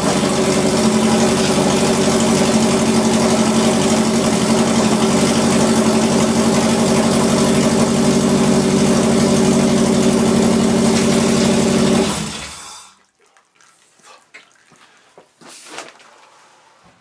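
Subaru EJ257-based flat-four (SOHC hybrid build) running loud with no exhaust fitted, just started and idling steadily. After about twelve seconds it is shut off, cut short because oil pressure maxes out and oil sprays from the oil filter again, which the owner puts down to a stuck pressure relief valve in the oil pump.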